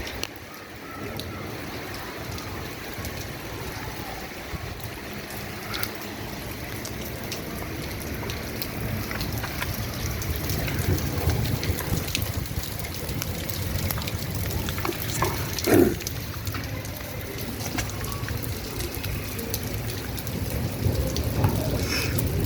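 Steady rain with water dripping, scattered single drops ticking sharply, and one louder drop splash about two-thirds of the way through.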